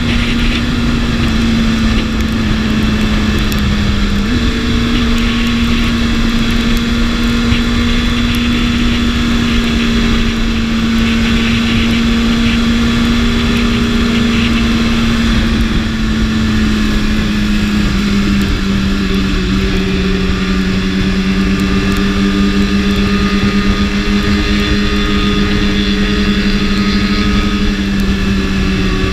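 BMW S1000RR inline-four engine running at a steady cruise with wind rush. Its pitch steps up once about four seconds in and eases lower a little after the middle.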